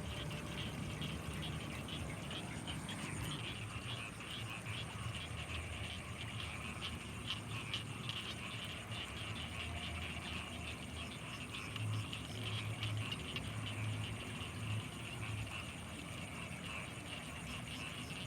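Night chorus of frogs and insects from rice fields: a dense, steady, high chirring, with a run of low pulsing croaks a little past the middle.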